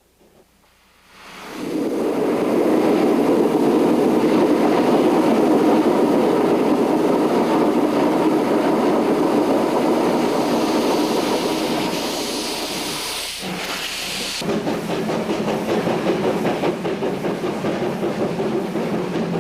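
Steam locomotive starting away with its train: a loud steady rush of steam begins about a second and a half in, a sharper, higher steam hiss sounds about two-thirds of the way through, and then a rhythmic pulsing sets in.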